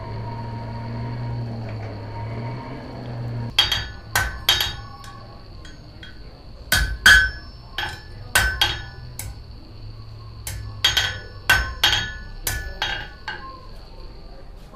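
Blacksmith's hammer striking metal on an anvil, about fifteen ringing blows in short clusters with pauses between, starting a few seconds in.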